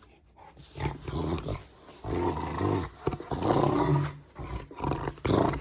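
Rottweiler growling in play, about four rough, low growls in a row.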